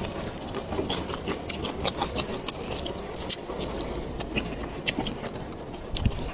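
A person eating close to the microphone: chewing, with scattered small clicks and taps, and one sharp click about three seconds in.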